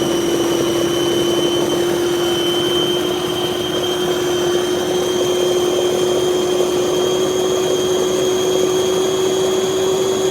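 Electric food processor's 250 W motor running with a steady whine, its pitch creeping slightly upward.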